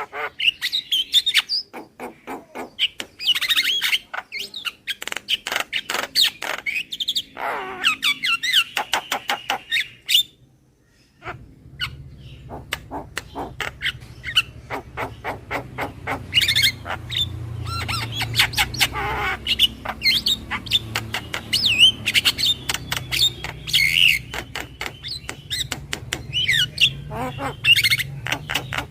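Javan myna calling: rapid runs of clicks and harsh chatter mixed with whistled notes. The calling breaks off for about a second around ten seconds in, and after that a low steady hum runs underneath.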